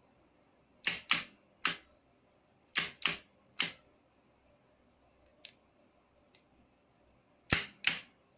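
Sharp mechanical clicks in three groups of three, the clicks within a group about a quarter to half a second apart, with two faint ticks between the second and third groups.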